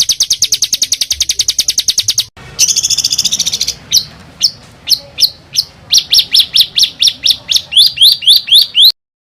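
Songbird song: a fast, even trill of high notes, about ten a second, breaks off after about two seconds. A short buzzy phrase follows, then single sharp notes that speed up into a quick run of sweeping notes, which cuts off abruptly near the end.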